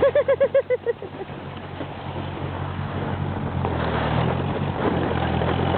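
Tractor engine running steadily under a rushing hiss while it tows a sled over snow. In the first second there is a quick run of about eight short high-pitched yelps.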